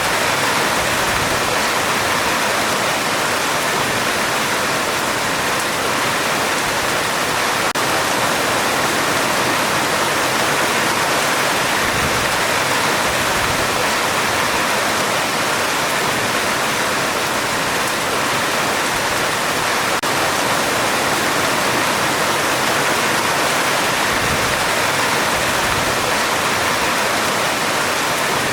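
Heavy rain drumming steadily on a metal roof, a dense, even hiss with no let-up and no thunder.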